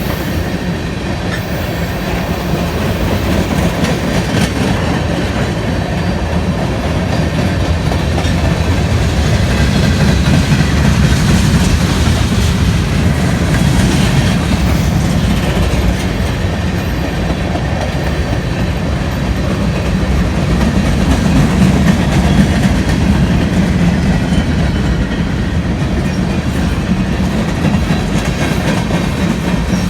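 A train rolling past close by: steady rumble of cars with wheels clattering over rail joints and occasional light wheel squeal.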